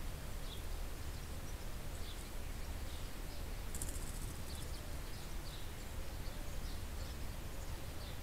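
Small songbirds chirping here and there in short high notes, with a brief very high trill about four seconds in, over a steady low rumble.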